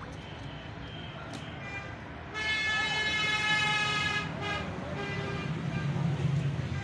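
A vehicle horn sounds once, held for about two seconds, starting a little over two seconds in, over a steady low rumble of traffic.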